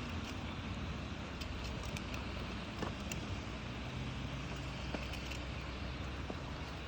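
Steady low outdoor rumble, like wind on the microphone, with scattered faint snaps of a wood campfire crackling.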